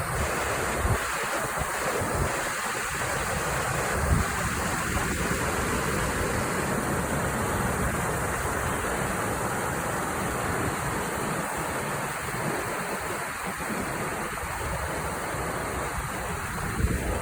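Creek water flowing as a steady rush of noise, with wind rumbling on the microphone at times.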